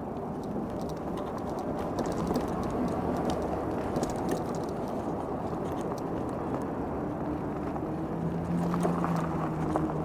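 Riding an e-bike: steady rumble of tyres and wind, with scattered small rattles and clicks. A faint steady hum comes in near the end.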